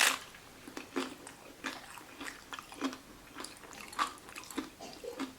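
Close-up chewing of a mouthful of vegan salad taco: small wet crunches and mouth smacks about every half second.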